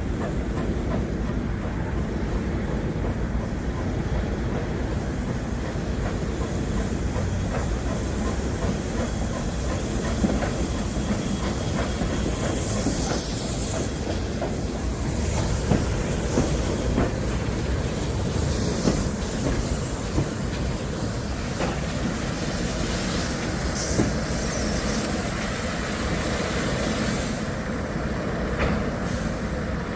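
Heritage railway coach running along the line: steady rumble and clickety-clack of wheels on the rails, with a brief high wheel squeal about twelve seconds in.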